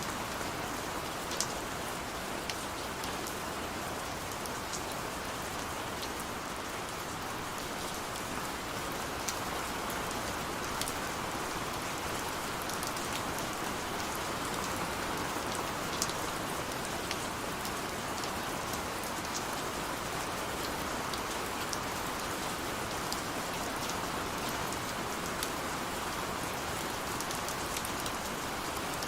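Steady rain falling on hard surfaces, with scattered sharp individual drop ticks over a continuous hiss.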